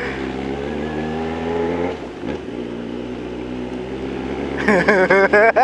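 Yamaha XJ6's inline-four motorcycle engine running at low revs in slow traffic, its pitch creeping up for the first two seconds, dipping briefly as the throttle is eased or a gear is changed, then holding steady.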